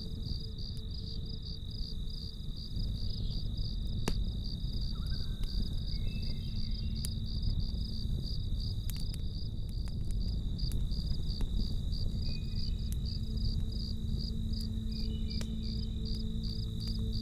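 Crickets chirping steadily at about three pulses a second over a low rumble from a campfire, with a few sharp crackling pops from the fire. Soft held ambient music tones sound faintly underneath.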